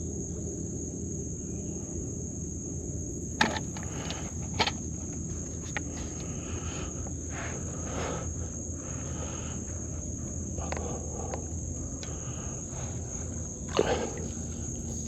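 Steady high-pitched drone of insects calling, with a low rumbling haze beneath. A few sharp clicks and knocks break in, twice in the first third and once near the end.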